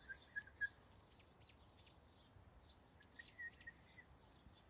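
Faint bird calls: a run of sharp chip notes, each falling quickly in pitch, repeated about three times a second, with brief twittering notes near the start and again about three seconds in.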